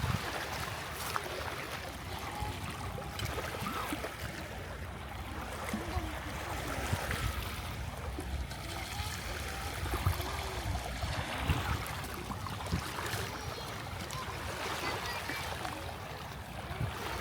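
Seashore ambience on a tidal flat: a steady rush of wind on the microphone and shallow water, with faint distant voices.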